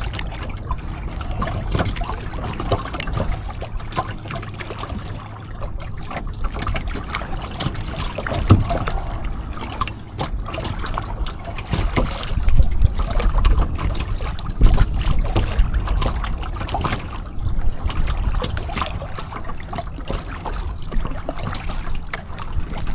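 Kayak paddle strokes: the blades dip and splash, and water trickles and drips off them, over a low rumble that comes and goes.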